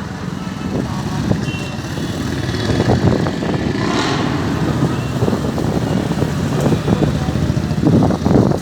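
Low, steady rumble of tractor and other vehicle engines moving along the road in a rally procession, with irregular knocks and clatter.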